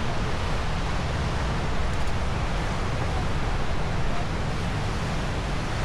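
Steady rush of wind buffeting the microphone mixed with sea surf on the shore, with heavy gusting rumble low down, as a snowstorm comes in over the Black Sea.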